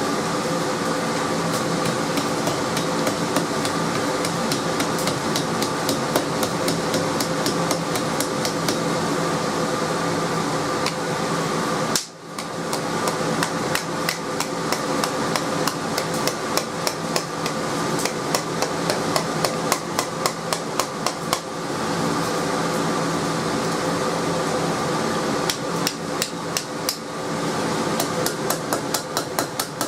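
Hand hammer striking truck coil spring steel on an anvil in quick, fairly light blows, a few a second, with short pauses between runs, as a loop is forged in the end of the piece. A steady mechanical hum runs underneath.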